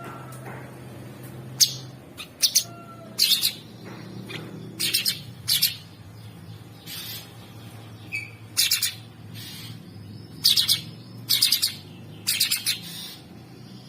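Cucak sungkok singing a rough, harsh song in short bursts, about a dozen quick phrases at roughly one a second. A faint low hum runs underneath.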